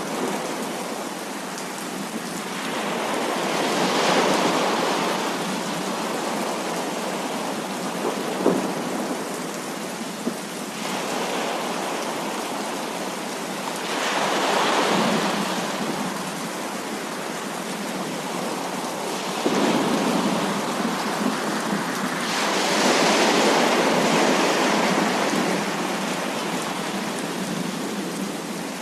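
Heavy rain falling steadily, with thunder rolling in and fading several times. There are a couple of sharp ticks about a third of the way through.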